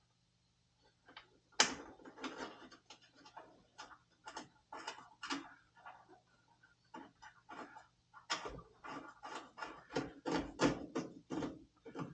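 Irregular metal clicks, clinks and knocks of tools and parts being handled while a part with a new gasket is refitted to an oil furnace. The sharpest knock comes about a second and a half in, with a dense run of clicks near the end.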